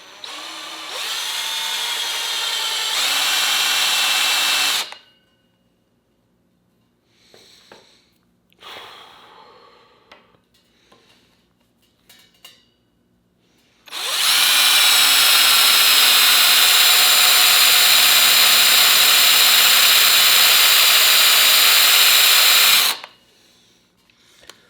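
Cordless drill boring out the bolt holes in a new exhaust's metal flange. There is a first run of about five seconds that speeds up about three seconds in, then a pause with a few handling knocks, then a longer steady run of about nine seconds.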